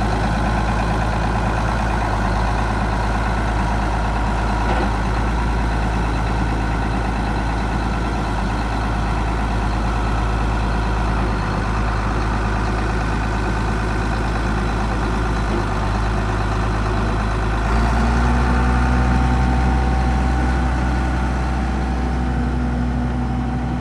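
1994 Case IH 7210 tractor's six-cylinder diesel engine running steadily, its tone changing and its low rumble growing a little louder about three-quarters of the way through.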